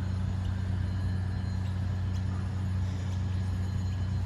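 A vehicle's engine running with a steady low hum that does not change.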